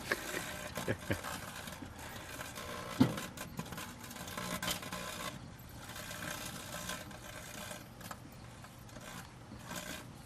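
Microwave oven running with a steady hum, broken by a few sharp clicks near the start and a louder knock about three seconds in.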